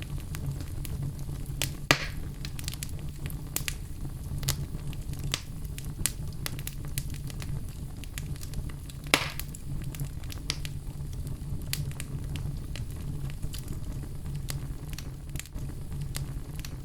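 Wood fire in a fireplace crackling: frequent small snaps over a steady low rumble, with two louder pops, one about two seconds in and one about nine seconds in.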